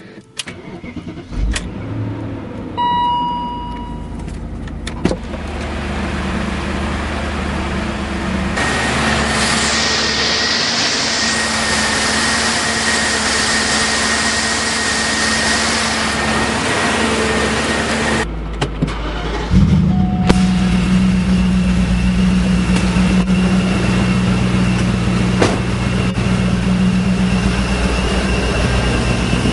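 BMW E39 M5's S62 V8 cranking and starting cold, then idling steadily, with a short dashboard chime soon after it fires. After a break, a V8 starts again about two-thirds of the way through and settles into a louder, steady idle.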